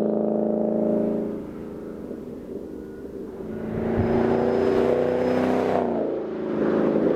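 2013 Mustang GT's 5.0-litre V8 running through a Roush axle-back exhaust. It is loud at first and falls away about a second and a half in. It builds again about four seconds in with the pitch sliding, then dips briefly near the end before picking back up.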